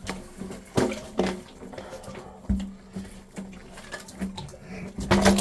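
Scattered knocks and clunks as a plastic water line and an inline coupling are handled and fitted together, with a louder clatter near the end.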